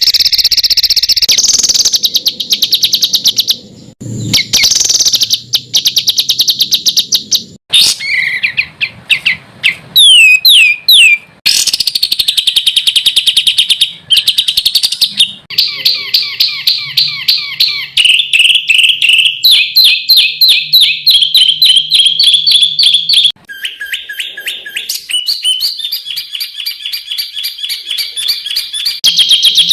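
Edited compilation of songbird recordings: fast, high-pitched trills and rapidly repeated call notes, the kind of 'tembakan' phrases used to tutor competition songbirds. The phrase type changes abruptly every few seconds where recordings are spliced together.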